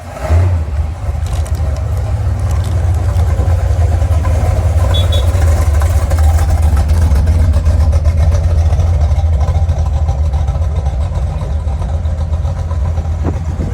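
Deep, steady rumble of a classic car's engine at low cruising speed, easing off slightly near the end.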